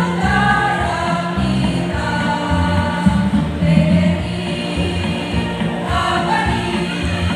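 A choir singing a song, several voices together over held low notes.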